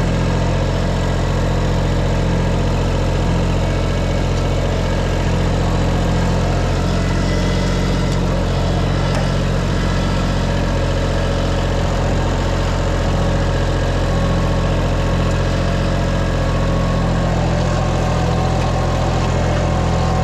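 Farm tractor engine running at a steady speed, a low, even drone that holds without change.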